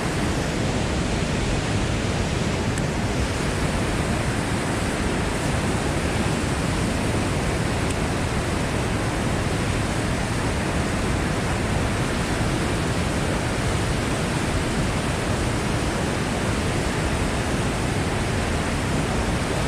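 Steady, loud rush of white water pouring from the dam's flood gates through the rocky potholes of the river below the spillway.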